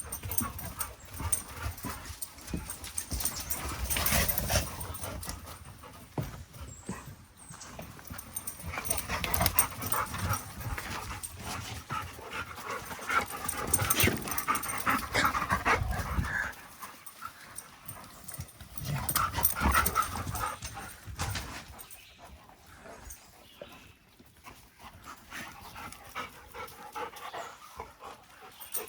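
Dogs panting and sniffing around scent containers, in irregular bursts.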